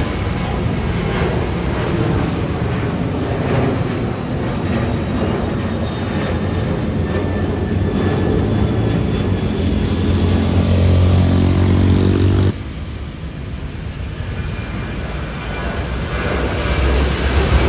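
Airliner engine noise, a loud steady roar. A pitched whine builds and rises in the second half, then cuts off suddenly; the roar comes back and grows again near the end.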